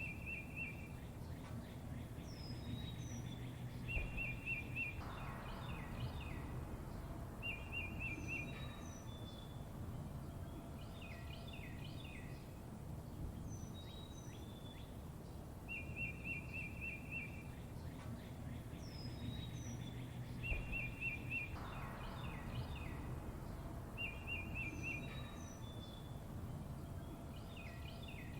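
Songbirds calling: short fast trills of repeated notes alternate with brief high, down-slurred chirps, over a low steady background rumble. The same run of calls comes round again about halfway through.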